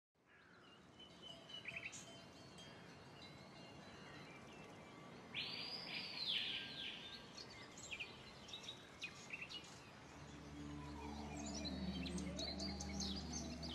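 Birds calling and chirping, with a quick run of arching calls about five seconds in. A low steady hum comes in and grows about ten seconds in.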